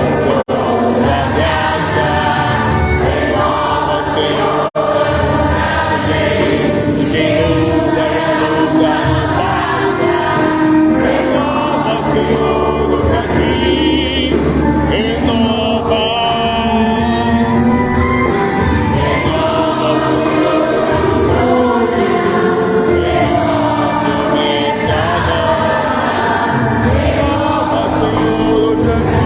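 Voices singing together in a gospel song, with musical accompaniment.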